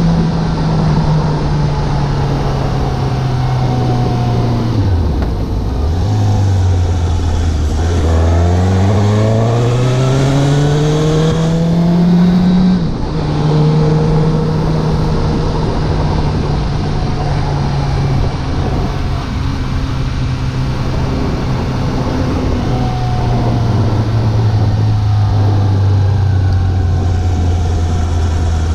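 Suzuki GSX750 motorcycle's inline-four engine during a ride. The engine note falls as the bike slows, then climbs steadily for several seconds under acceleration and breaks off sharply at a gear change about halfway through. After that it holds steady, then eases down to a lower, even note near the end.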